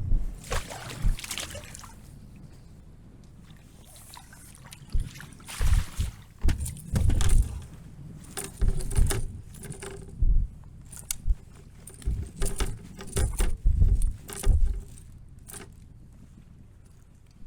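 Irregular knocks, thumps and light metallic clinking on a fishing kayak, with faint water sounds, coming in scattered clusters.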